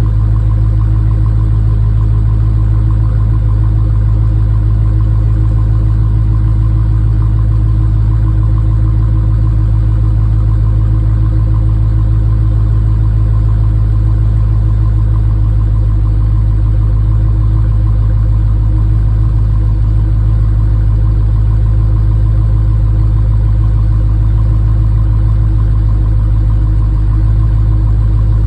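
2021 Dodge Challenger engine idling steadily during warm-up after a cold start, at an even, unchanging pitch.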